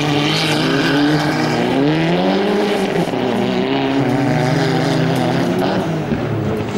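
Competition hatchback rally car's engine revving hard at speed, its note rising and falling repeatedly with throttle and gear changes.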